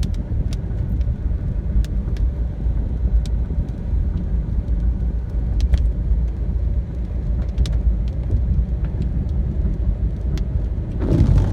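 Steady low rumble of a moving vehicle heard from on board, with a few light clicks scattered through it.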